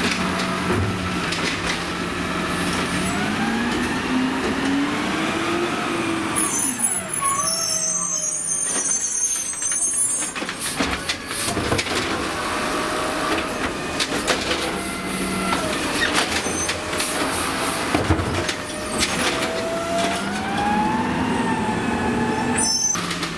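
Automated side-loader garbage truck working: its engine revs up and settles back twice, with several seconds of high squealing about seven seconds in and scattered clanks.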